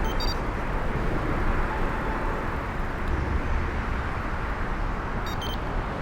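Steady wind and road noise from riding a bicycle, heaviest in the low rumble, with two brief high chirps, one just after the start and one near the end.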